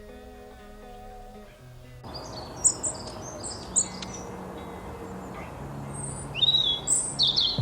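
Sparrows chirping: a run of short, high chirps starting about two seconds in, growing louder and denser near the end, over a steady background hiss.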